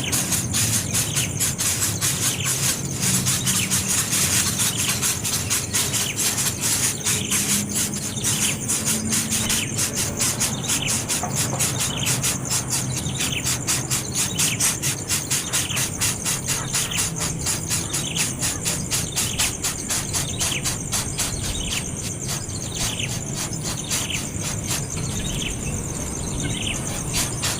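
A baby bird calling, a short high chirp falling in pitch, repeated about once a second from about ten seconds in, over a steady, fast-pulsing insect chorus.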